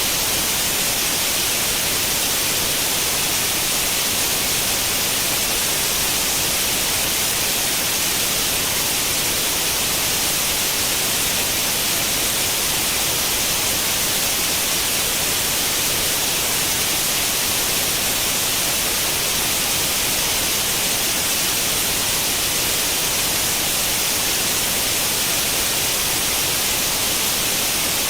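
Steady white-noise hiss like an old tube television's static on an empty channel, stronger in the upper range and unchanging throughout.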